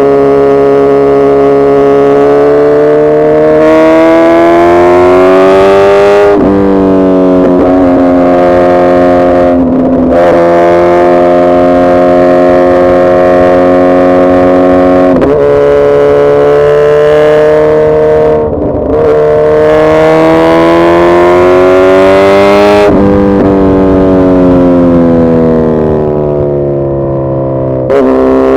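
Suzuki Hayabusa's inline-four engine accelerating hard through the gears: the pitch climbs steadily over several seconds, then drops sharply at each upshift, about six times.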